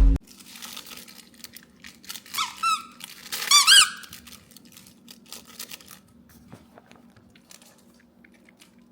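Two short bursts of rapid, high-pitched squeaks, about two and a half and three and a half seconds in, with faint scattered ticks and room noise around them.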